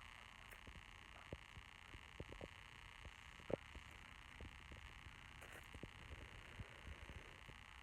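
Near silence: a faint steady hiss with scattered soft knocks, one louder knock about three and a half seconds in.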